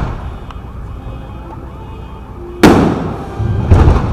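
Fireworks bursting overhead: one sharp, loud bang about two and a half seconds in with a long rumbling decay, then a quick cluster of further bangs about a second later.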